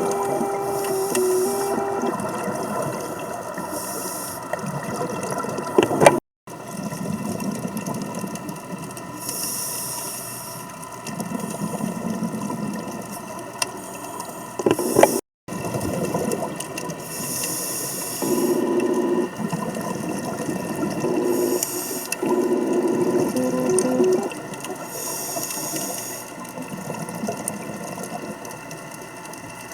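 Scuba diver breathing through a regulator underwater: a hiss with each breath every few seconds and bubbly gurgling surges as exhaled air escapes. The sound cuts out completely twice for an instant.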